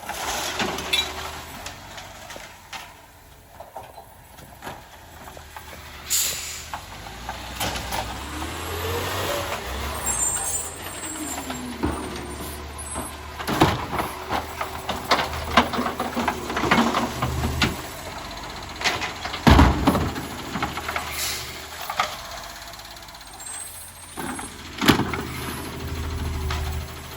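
Garbage truck at work on a collection route: its diesel engine runs steadily, air brakes hiss, and a string of clanks and bangs come from the lift and bins, the loudest about two-thirds of the way through.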